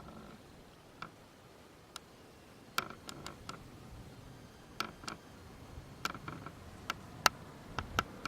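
Irregular sharp clicks and ticks, a dozen or so, some with a brief high tone, over a faint background hiss; the loudest comes about seven seconds in.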